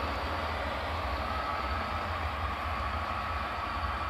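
HO-scale model train running steadily, with a low hum and a steady whine.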